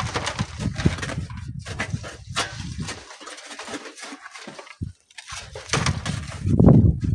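Strong wind buffeting the microphone in gusts, dying away around the middle and picking up again near the end, with scattered small clicks.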